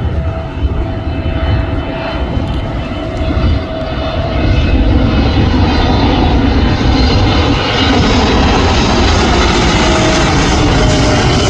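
Jet airliner on approach to land, a low engine rumble with a steady whine, growing louder about four seconds in.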